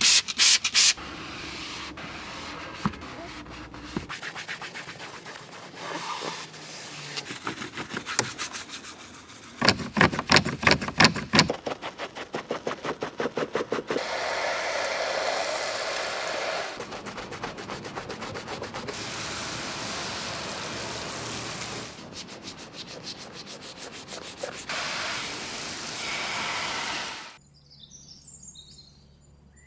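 Car being washed: a run of fast, even scrubbing strokes on the bodywork, then long steady spraying hiss of water and foam that stops abruptly near the end.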